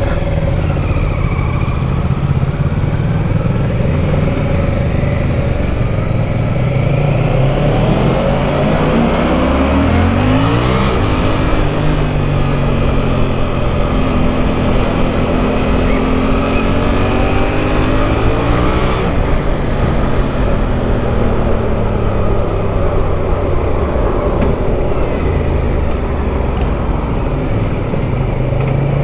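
Motorcycle engine running under way, its pitch climbing over the first ten seconds or so, then easing off and settling as the throttle and gears change, over a steady rush of wind.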